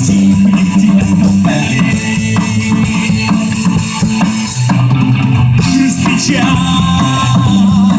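Rock band playing a mostly instrumental passage: drum kit, guitars and bass. The cymbals drop out for a short break a little past halfway.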